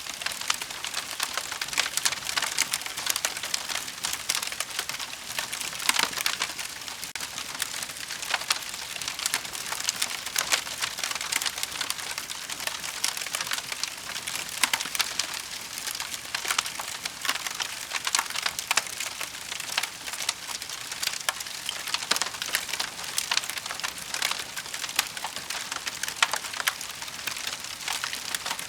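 Wood fire crackling steadily, with frequent sharp pops and snaps.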